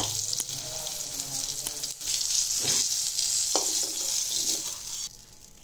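Vegetable pieces sizzling in a little oil in a metal wok, with a spatula scraping and knocking against the pan a few times as pieces are turned and lifted out. The sizzle cuts off abruptly near the end.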